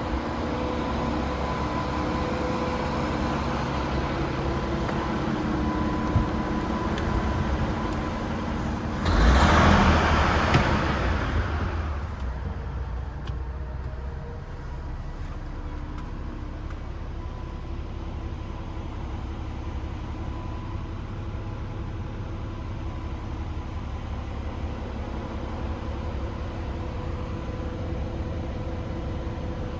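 DAF XF106 tractor unit's PACCAR 460 bhp Euro 6 diesel idling steadily. About nine seconds in, a loud rushing hiss comes in and fades over some three seconds, and the idle runs on more quietly afterwards.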